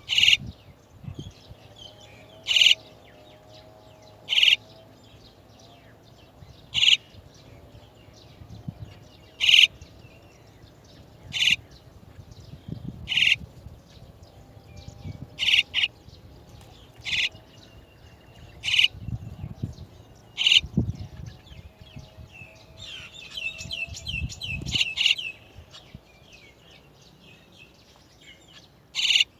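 Chestnut-tailed starlings calling at the nest: short, sharp, high calls repeating about every two seconds, with a burst of quick chirps about three-quarters of the way through.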